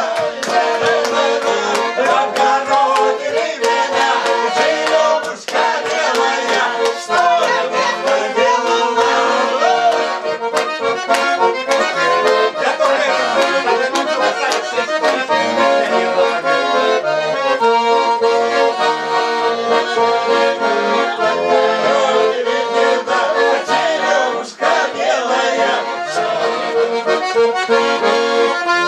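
Accordion playing an instrumental introduction to a folk-style song, with sustained melody notes over regular chord strokes.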